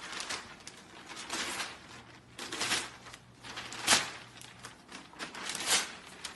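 Irregular rustling and scraping noises, swelling about once a second.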